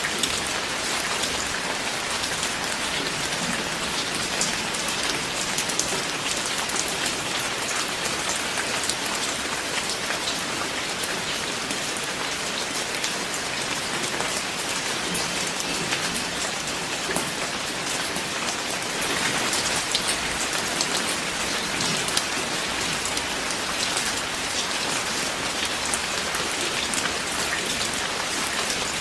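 Steady rain falling on a surface: an even hiss of rain with many fine, separate drop hits throughout.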